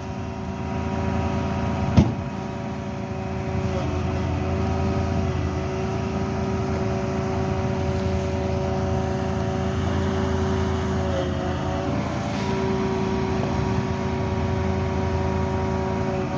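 A vehicle engine running steadily, its pitch shifting slightly a couple of times, with a single sharp knock about two seconds in.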